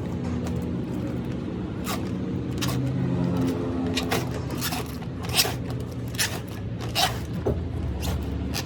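Irregular sharp scraping strokes, about eight of them, most between two and eight seconds in, over a steady engine-like hum.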